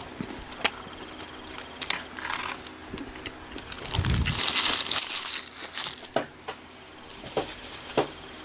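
Close-miked mukbang eating sounds: paper food wrapper crinkling, loudest about four to five seconds in, among scattered crisp clicks of chewing fried fast food.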